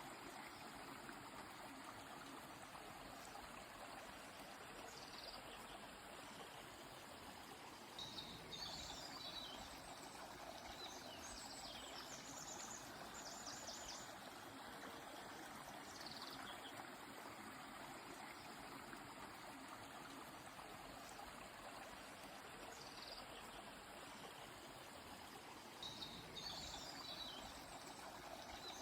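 Steady rushing flow of a river, with bird chirps and trills over it a few times: a rapid trill around the middle and a short burst of calls near the end.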